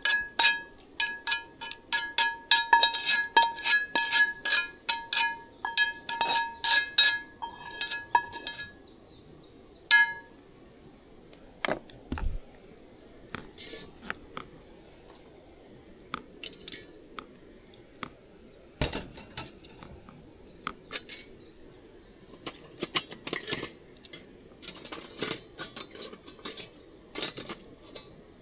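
Metal cookware clinking: a utensil strikes a ringing metal pot or cup rapidly, about three to four times a second, for roughly eight seconds. After one more ringing clink it gives way to scattered light knocks and clatters.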